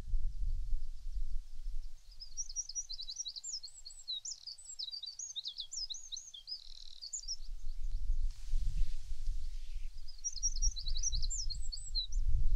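A songbird singing quick runs of high chirps and trills: one long phrase of about five seconds, then a shorter one near the end. Under it comes an on-and-off low rumble of wind on the microphone.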